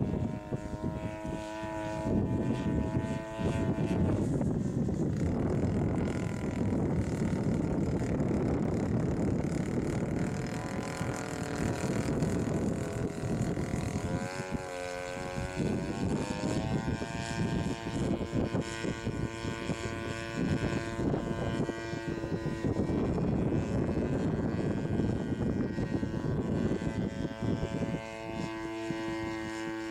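Chainsaw engine driving the propeller of a small homebuilt aircraft, running under a heavy rushing noise. Its pitch holds steady for stretches and shifts up and down about halfway through.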